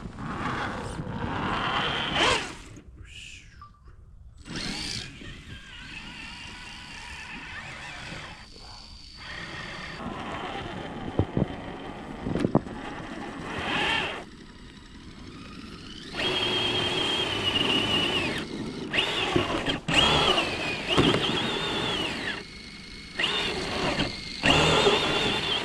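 Radio-controlled trucks' electric motors and geartrains whining in bursts, the pitch rising and falling as the throttle is worked, louder and more continuous in the second half.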